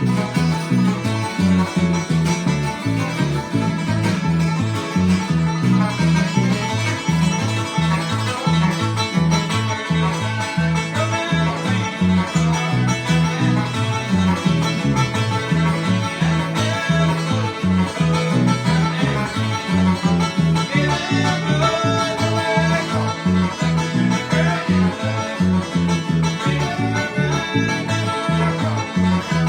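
Bluegrass band playing a fast, driving instrumental: five-string banjo picking over strummed guitar, with a bass line bouncing between two notes on the beat.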